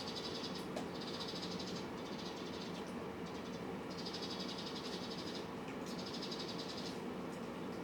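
Cats and kittens eating, their mouths making rapid, fine clicking eating sounds in bursts of up to about a second with short pauses, over a faint steady hum.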